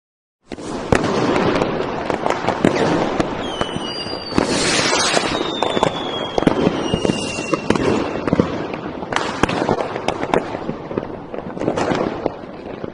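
A dense, continuous crackle of many sharp pops and bangs. A few thin whistles glide slowly downward partway through.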